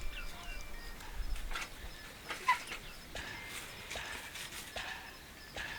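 Chickens clucking softly, with brief high chirps and scattered light knocks and clicks.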